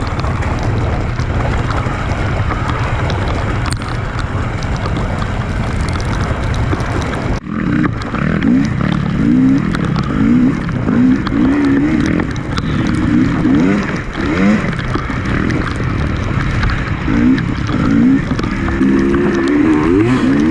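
Enduro dirt bike engine revved over and over, its pitch climbing and dropping with each throttle burst. For the first seven seconds or so there is a steady dense rushing noise under a lower engine drone, then an abrupt cut into the revving.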